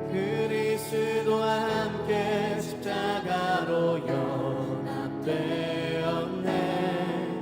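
Live contemporary worship music: voices singing a sustained, wavering melody over the band's accompaniment.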